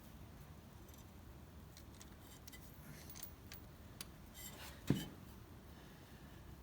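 Light metallic clicks and taps of small parts and hand tools being worked on a tractor's throttle cable linkage, with one louder knock about five seconds in.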